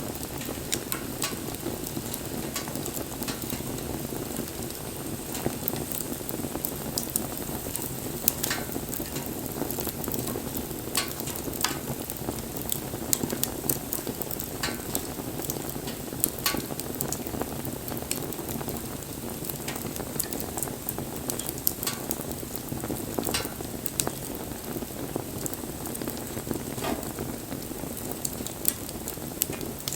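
Wood fire burning with a steady hiss and frequent, irregular sharp crackles and pops.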